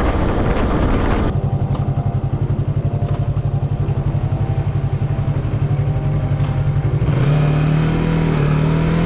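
Yamaha MT-03 motorcycle engine. It starts with riding noise, then about a second in settles to a steady pulsing idle. Near the end the revs rise and it gets louder.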